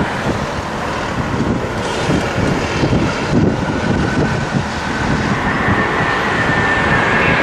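Jet aircraft engine roar growing louder as the aircraft approaches, with a faint whine rising in pitch over the last couple of seconds, and wind buffeting the microphone.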